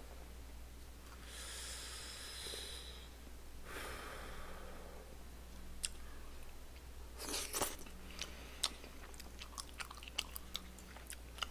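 A person chewing a mouthful of chewy rice cakes in sauce, with wet mouth sounds and two longer soft hissing breaths in the first few seconds. Scattered small sharp clicks follow in the second half.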